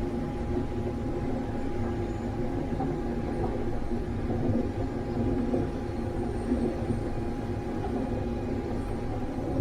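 Combine harvester running steadily: a continuous mechanical rumble with a steady whine on top.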